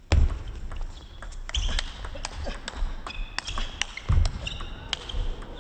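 Table tennis rally: the plastic ball clicking sharply off rackets and the table many times in quick, uneven succession.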